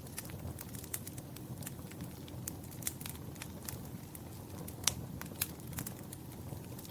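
Wood fire burning in a fireplace, with irregular sharp crackles and pops over a low steady rumble of the flames; the loudest pop comes about five seconds in.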